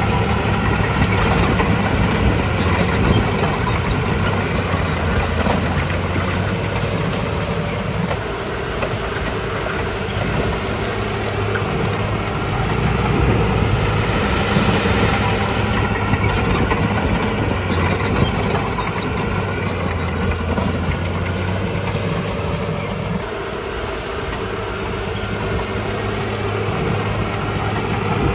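Bulldozer's diesel engine running steadily under work, its level swelling and easing, with a few short clanks.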